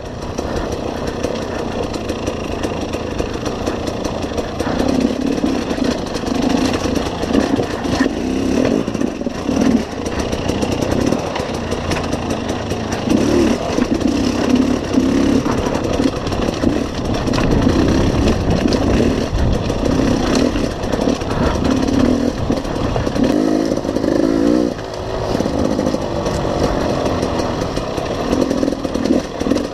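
Enduro motorcycle engine heard from on board, running hard on a rocky trail with the revs rising and falling repeatedly as the throttle is worked.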